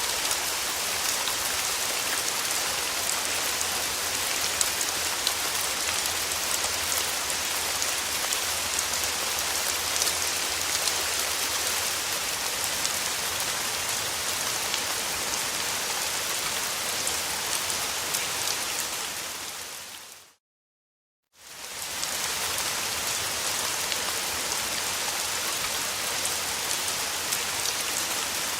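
Steady rain falling, an even hiss with fine drop ticks. About two-thirds of the way through, it fades out to about a second of silence and fades back in.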